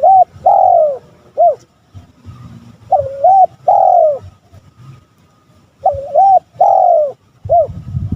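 Male spotted dove (tekukur) calling: its cooing phrase repeats three times, about every three seconds, each a short double coo, a long drawn coo that falls away, and a short closing coo.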